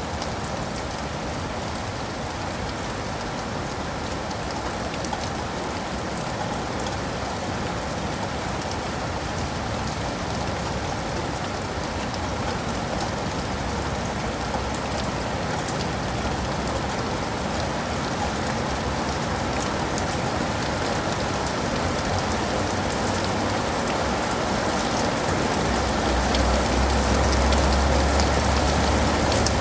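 Steady rain falling, slowly growing louder, with a low rumble coming in near the end.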